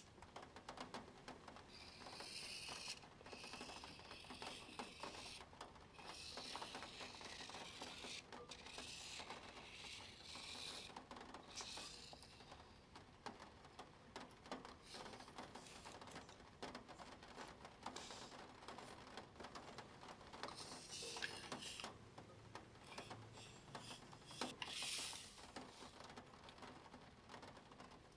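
Faint pen scratching on paper in several short runs of a second or more as a plastic Spirograph wheel is worked around, with light plastic clicks and taps between the runs.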